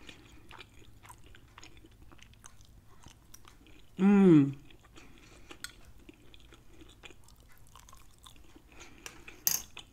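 Close-miked chewing of a mouthful of rice and peas: soft, wet mouth clicks and smacks. About four seconds in comes a short hummed "mmm" of enjoyment that falls in pitch.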